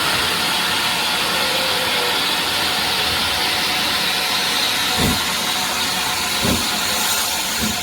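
Standing steam locomotive, the GWR Manor-class 4-6-0 7827 Lydham Manor, giving off a steady hiss of escaping steam. Two dull knocks come about five and six and a half seconds in.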